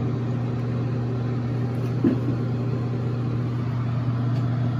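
Steady low mechanical hum with a constant rushing background, like a motor or pump running; a brief faint sound about two seconds in.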